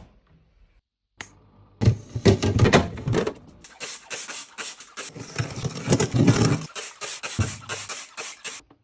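A quick run of knocks, clatters and rattles of objects being handled and moved about, loudest in two spells.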